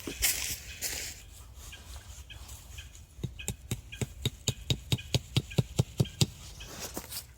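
Quick, even run of about a dozen knocks, some four to five a second, most likely a tent stake being driven into the ground with a hammer. It is preceded by rustling.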